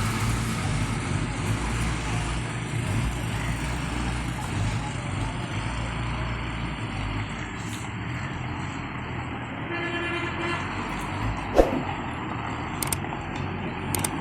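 Road traffic: the steady low rumble of a running vehicle engine, with a short horn toot about ten seconds in and a sharp knock a moment later.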